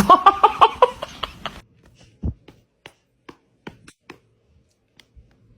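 A person laughing in quick rhythmic bursts for about a second and a half, then a few faint scattered taps and clicks with one low thump about two seconds in.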